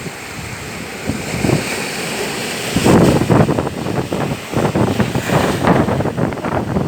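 Wind buffeting the microphone over a steady rushing noise, growing louder and gustier about three seconds in.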